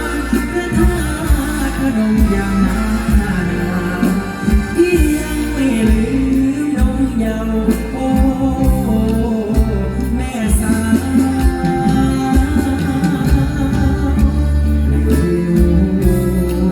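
Live mor lam band music with a singing voice over a heavy, steady bass and drum beat.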